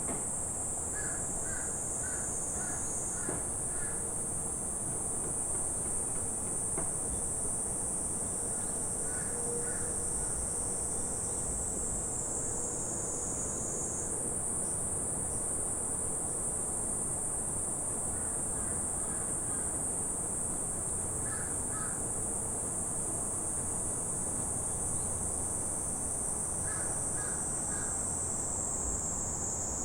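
Dense, steady chorus of summer insects shrilling high, with a bird calling now and then in short runs of four or five notes.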